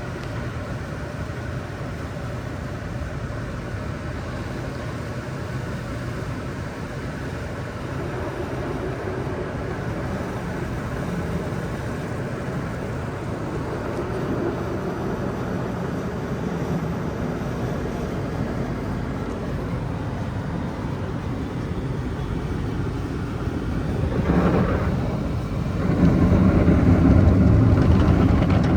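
Steady low rumble of an automatic car wash and the car in it, growing louder near the end.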